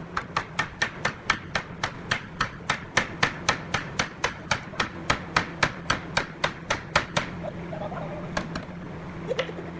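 Nailing into wood: a rapid, even run of about thirty sharp strikes, some four a second, stopping about seven seconds in, over a low steady hum.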